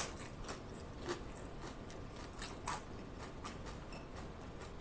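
Close-miked chewing of a mouthful of loaded-nacho tortilla chips: one brief crunch at the start, then faint, scattered crunches and mouth clicks.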